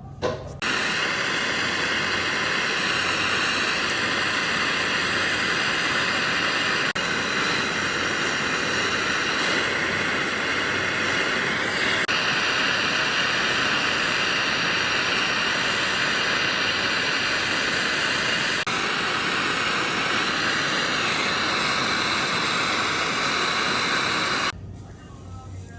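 Handheld gas plumbing torch burning with a loud, steady hiss, heating a copper pipe joint for soldering. The flame lights about half a second in and cuts off abruptly near the end.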